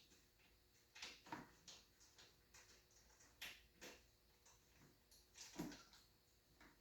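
Near silence with a few faint, scattered clicks and taps of small objects being handled.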